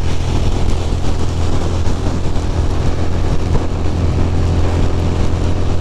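Ducati Monster's L-twin engine running steadily at highway speed, mixed with heavy wind noise on the microphone in rain. The low rumble holds even, with no change in pitch.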